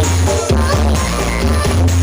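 Loud electronic dance music with a heavy, sustained bass line blasting from a truck-mounted 'sound horeg' party sound system.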